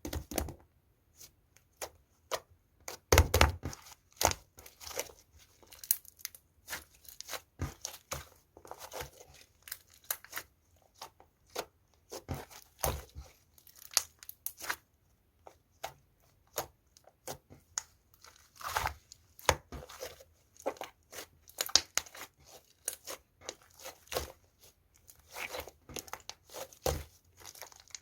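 Pink slime with clay mixed in being kneaded and stretched by hand, giving irregular sticky pops and crackles, some louder snaps among many small ones.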